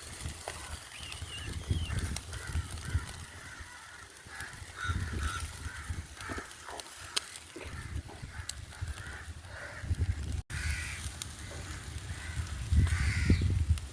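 Birds calling repeatedly in short calls, over intermittent low rumbling bumps.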